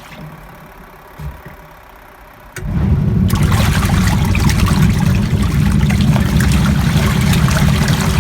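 Hisense twin-tub washing machine's wash tub starting up suddenly about two and a half seconds in, then running steadily: the motor driving the pulsator and churning the soapy wash water.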